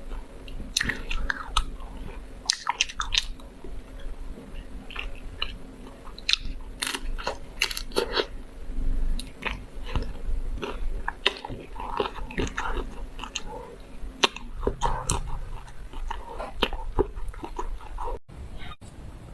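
Close-up biting and chewing of a chocolate-coated ice cream bar, the chocolate shell cracking in many small, irregular crisp snaps between softer chewing.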